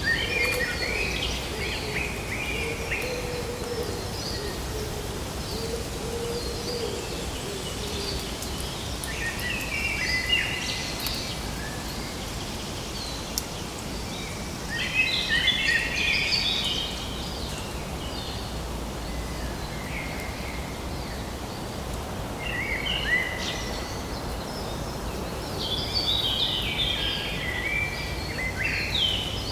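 Songbirds singing in short bursts of chirps every few seconds over a steady background hiss of outdoor ambience.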